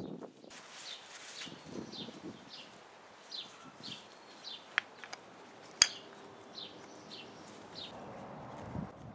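A bird repeating short, falling chirps, about two a second. Two sharp clicks of hard plastic filter parts being handled sound about a second apart near the middle, the second the loudest.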